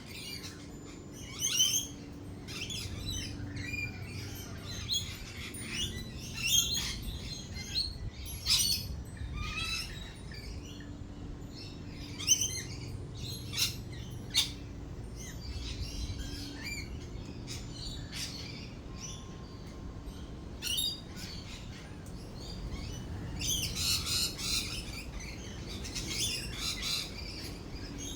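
Lorikeets chattering with many short, shrill screeches and chirps, coming thick and fast near the end, over a low background rumble.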